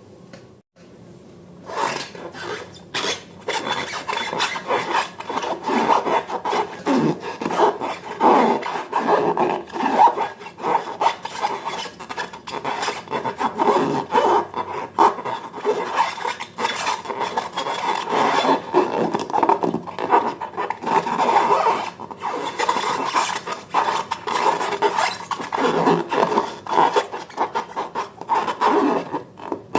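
Slime being stirred and worked by hand: a continuous, irregular run of sticky rubbing and scraping noises that starts about two seconds in.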